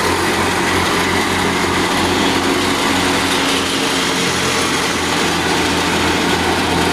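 Al-Ghazi tractor's diesel engine running steadily, driving a wheat thresher, with the thresher's even rushing noise over the engine's hum.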